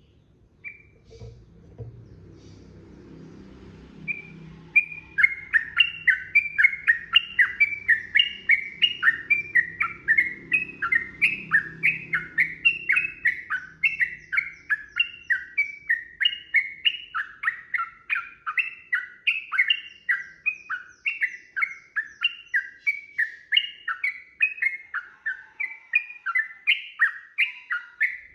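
Yellow-vented bulbul (trucukan) singing a long, fast chattering run: quick repeated falling notes, about three to four a second, that start about four seconds in and carry on without a break.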